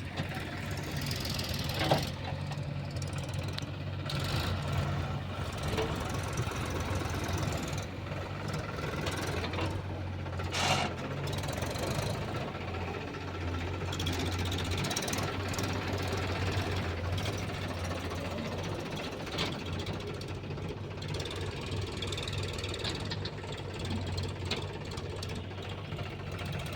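Diesel engine of heavy machinery running steadily, with a sharp knock about two seconds in and a brief louder burst near the middle.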